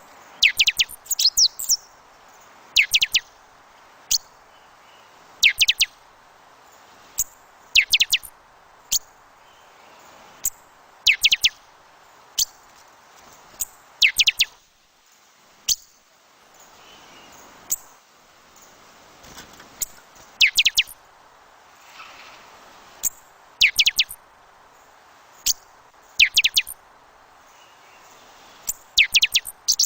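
Small birds chirping: short, quick downward-sweeping notes, often two or three in a row, every second or two. Under them a steady soft rush of wind, which drops away briefly about halfway through.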